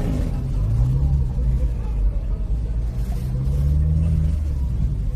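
BMW M3 (G80)'s twin-turbo straight-six engine running at low revs, its pitch rising twice as it picks up: about a second in, and again from about three seconds in before dropping away.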